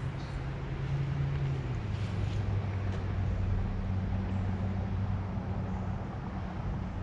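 A motor engine running: a steady low hum that drops in pitch about two seconds in, then holds.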